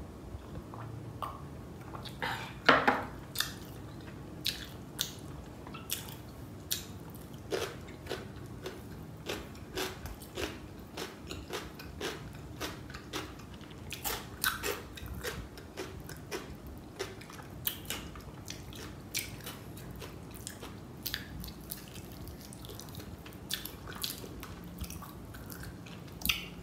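A person chewing and biting biryani rice and chicken masala close to the microphone, with sharp mouth clicks about one to two a second and a louder knock about three seconds in.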